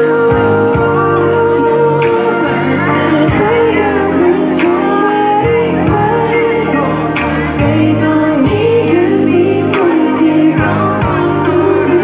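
A song sung over backing music with a steady drum beat.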